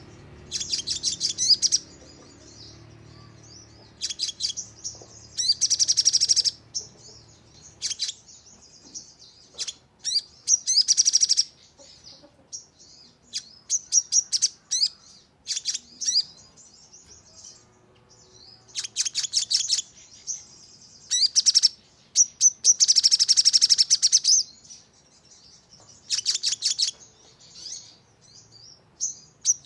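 Sogon songbird singing: rapid high-pitched trilled bursts repeated every second or two, some bouts running for about two seconds, the fast 'nembak' phrases used as lure song.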